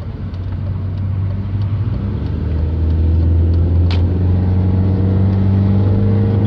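BMW E46 316i's 1.9-litre four-cylinder engine pulling the car away through its automatic gearbox, heard from inside the cabin: a low engine drone that climbs slowly in pitch and grows louder about three seconds in. A single sharp click sounds about four seconds in.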